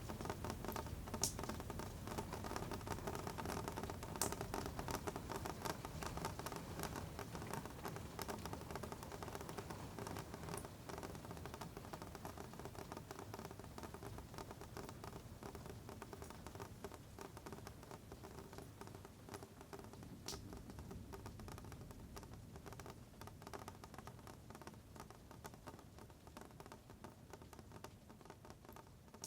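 Rain pattering as a dense crackle of fine taps, with a few sharper drops, gradually fading quieter.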